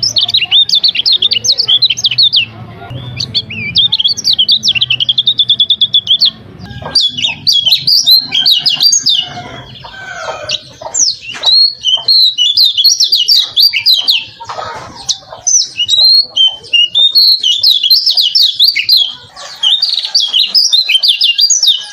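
Kecial kuning white-eye singing a long, fast, varied twittering song that is high-pitched and nearly continuous, with a quick run of evenly repeated notes a few seconds in.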